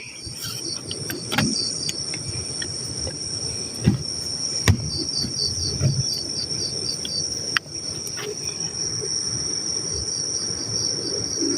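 Night insects: a steady high-pitched insect drone, with crickets chirping in quick regular runs, three times. A few scattered clicks and knocks over it.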